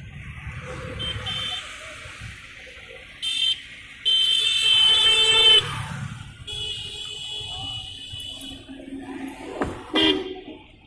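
Railway station sounds: a series of shrill, whistle-like tones, the longest and loudest lasting about a second and a half about four seconds in. A sharp knock and a falling sound come near the end, over a low background rumble.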